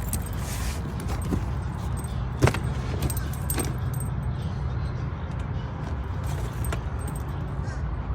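Car engine idling with a steady low hum, with scattered light clicks and rattles of small objects being handled, the loudest about two and a half seconds in.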